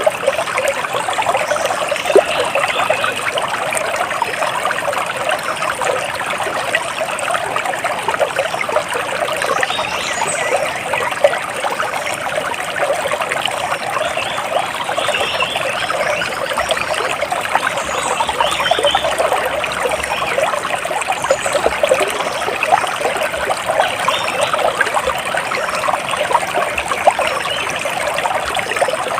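Water splashing and trickling steadily, with faint high bird chirps here and there.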